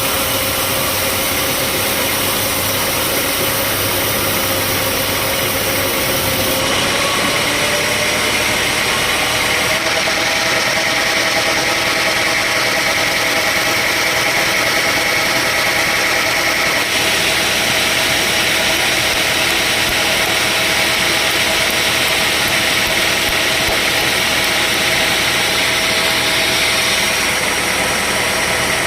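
Sawmill machinery running steadily: a continuous motor hum with whining tones that step up slightly in pitch about a quarter of the way in.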